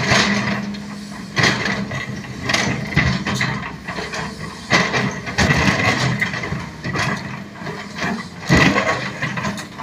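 Sany SY215C crawler excavator working: its diesel engine runs steadily under load with a steady high whine, broken by irregular knocks and clanks every second or so.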